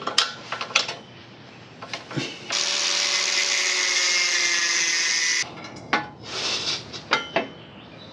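A small power tool runs steadily for about three seconds in the middle, its pitch sagging slightly, between sharp clicks and clinks of metal parts being handled.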